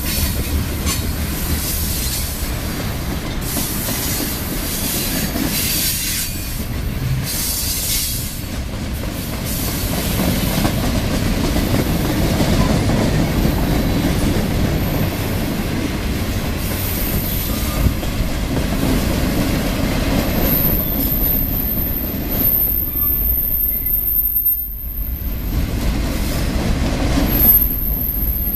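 Freight cars of a passing mixed train (tank cars, covered hoppers, boxcars) rolling by, their steel wheels on the rails making a steady low rumble. About two-thirds of the way in a thin high-pitched wheel squeal comes and goes.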